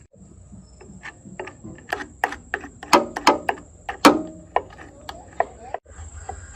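Irregular knocks and clinks of hand tools on metal engine parts, a dozen or so, loudest around three to four seconds in.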